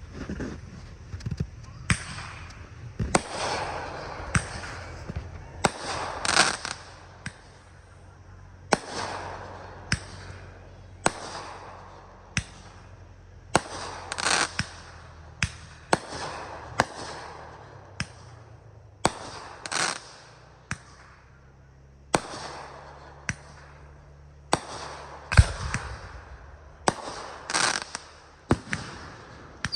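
Fireworks display: aerial shells going off in a steady run of sharp bangs, roughly one to two a second, many with a brief trailing ring after the bang.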